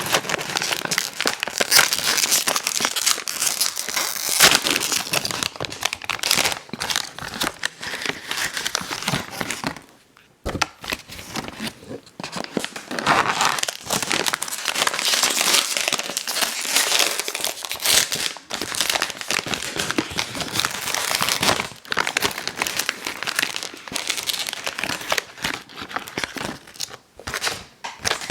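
Ice cream sandwich wrapper crinkling and rustling as it is handled, with a short pause about ten seconds in.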